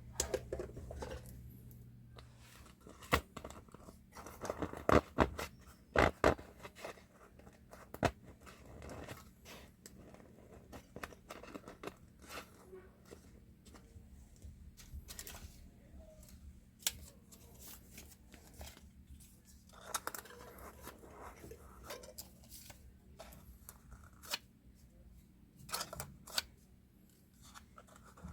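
Hand tools working on a 10-inch woofer during a voice-coil repair: a long run of irregular snips, scrapes and clicks, with a few louder knocks about three to six seconds in. A faint steady hum runs underneath.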